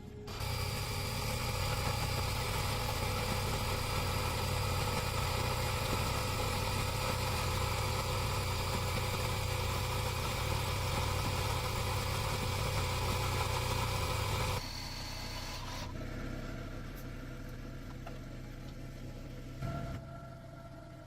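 Car engine idling steadily. It stops suddenly about two-thirds of the way through, leaving a quieter steady hum.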